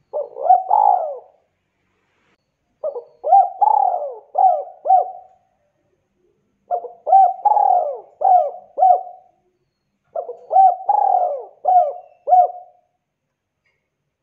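Spotted dove (tekukur) cooing its song. It gives four phrases of rising-and-falling coos, each phrase of several notes, separated by short silent gaps.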